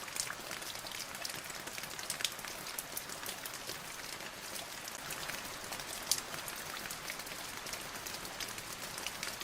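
Steady rain falling on a surface: an even hiss with many separate drops ticking through it, a few louder drops standing out about two seconds in and again about six seconds in.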